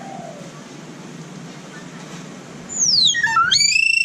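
A talking bird gives a loud whistle about three seconds in: a quick falling sweep, then a rising one that levels off into a held whistle.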